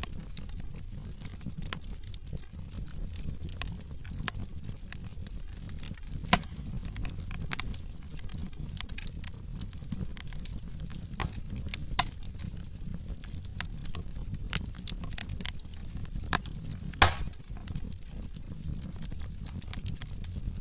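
Wood logs burning in a fireplace: steady crackling with scattered snaps over a low rumble of the flames, and a few sharper pops about six, twelve and seventeen seconds in.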